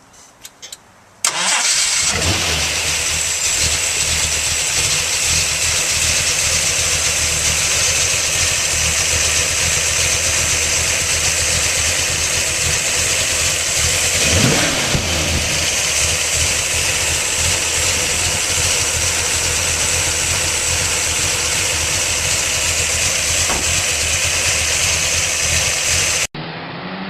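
Ford 428 V8 with a solid roller cam and dual four-barrel carburettors starting about a second in and then idling steadily, with a little lope from the cam. There is one short blip of the throttle about halfway through.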